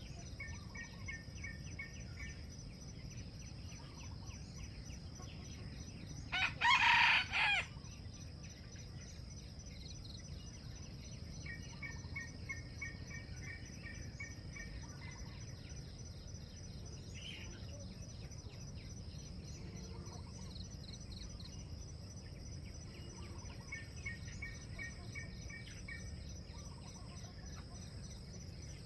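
A junglefowl rooster crows once, loud and about a second and a half long, around six seconds in. Under it runs a steady high insect drone, and short rapid chirping trills come three times.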